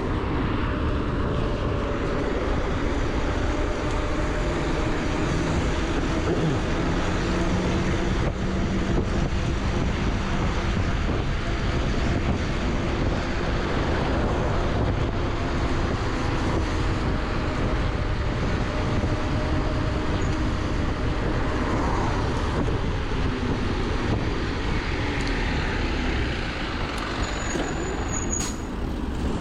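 Steady road-traffic noise heard while riding, with wind rumble on the microphone and a motor vehicle's engine drone that fades out partway through.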